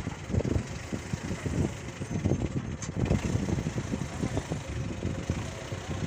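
Engine running at idle, with irregular low rumbling surges.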